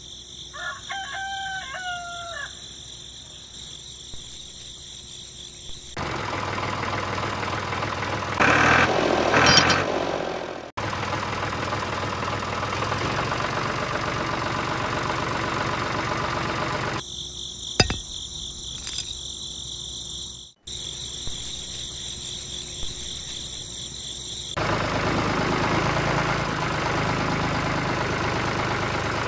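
A rooster crows once near the start. After it comes a series of abruptly cut segments of steady mechanical-sounding noise, loudest about a third of the way in.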